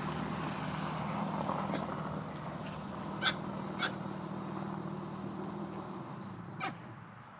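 A motor vehicle's engine running steadily, then fading out and stopping about six seconds in, with a few short sharp sounds over it.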